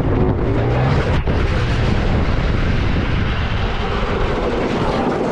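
Loud rushing wind and road noise from a motorcycle at speed, with a low engine hum in the first second and a single sharp knock about a second in.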